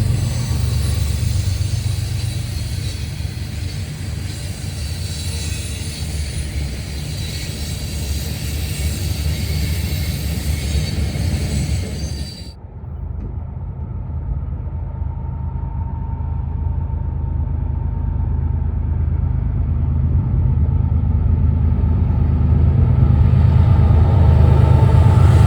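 Passing train, a heavy steady low rumble. About halfway through the higher hiss drops out suddenly and the rumble carries on, growing louder toward the end.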